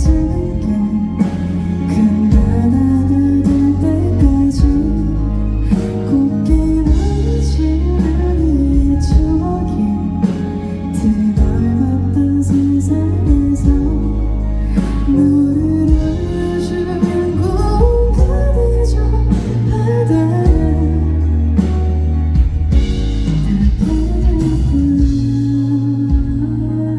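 Live band music: a woman singing a slow song over guitar, bass and drums.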